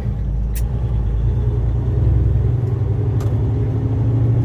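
Semi truck's diesel engine running with a steady low rumble while the rig moves at low speed. Two short clicks sound about two and a half seconds apart.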